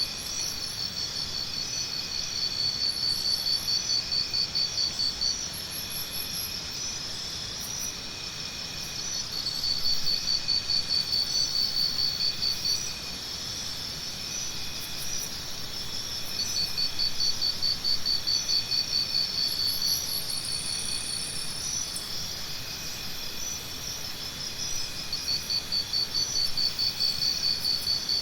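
Jungle morning ambience of insects trilling: a fast pulsed trill rises to the fore in spells of a few seconds and falls back, over a steady bed of other insect calls, with a few short high chirps scattered through.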